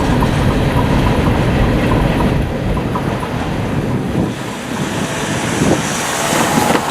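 Freight train rolling along, a steady low rumble that eases off about a third of the way in, with wind buffeting the microphone.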